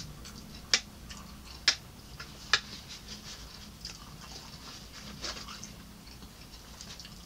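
Close-mic chewing of a mouthful of rice, with small wet mouth clicks throughout and three sharp clicks about a second apart in the first few seconds. Later come soft crackles as a piece of baked chicken is pulled apart by hand. A faint steady hum runs underneath.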